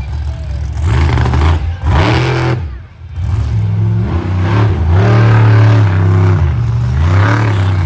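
Monster truck engine revving hard, the throttle opened and closed several times; the revs drop away briefly about three seconds in, then climb and hold high before falling and rising again near the end.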